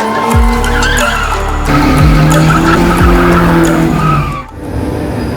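Drift car engine revving hard, with tyres squealing and skidding on the pavement, over background music; the sound breaks off briefly near the end.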